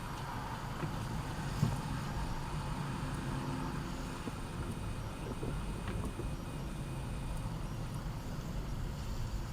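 Steady low rumble of vehicle engine and road noise, with a short knock about a second and a half in.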